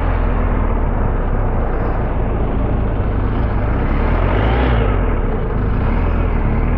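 Steady rush of wind and engine noise from a BMW R1250GS motorcycle on the move, heaviest in the low rumble.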